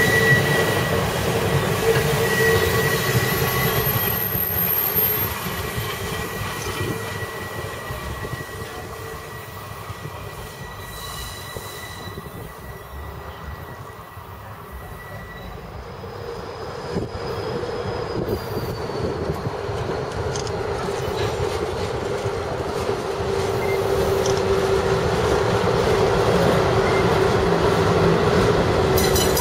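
Railroad passenger cars rolling past on jointed track with a steady high wheel squeal, fading as the train moves away. About halfway the sound builds again as a train of tank cars rolls past close by, its wheels rumbling and squealing on a lower note.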